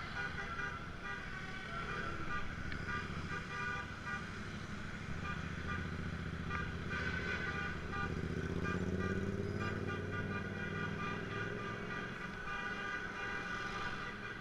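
Tractor engines running in road traffic, one rising in pitch near the middle and then easing off, with horns sounding.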